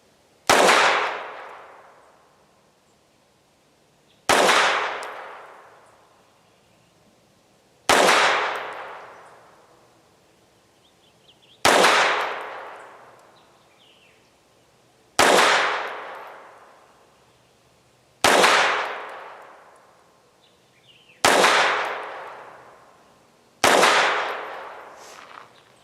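FEG AP-MBP .32 ACP pistol firing eight single shots, spaced about three to four seconds apart, each trailing off in a second or so of echo.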